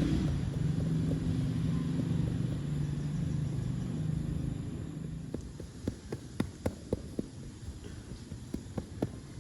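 A low motor-vehicle engine hum that fades away over about five seconds, followed by a string of light, irregular knocks, about two or three a second.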